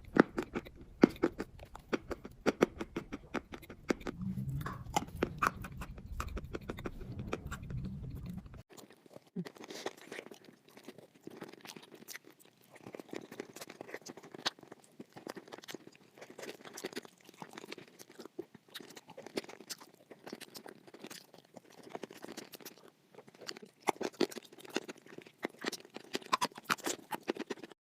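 A person chewing and crunching chalk close to the microphone, with dense, irregular crunches. A low hum under the first third stops suddenly.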